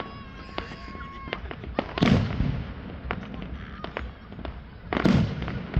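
Fireworks going off: two loud bangs about three seconds apart, with scattered sharp cracks and pops between them. A steady high whistle sounds during the first second or so.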